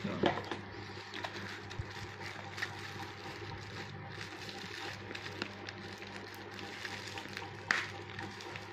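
Faint scattered crinkling and clicks of thick packaging being handled and unwrapped, with one slightly louder rustle near the end, over a steady low hum.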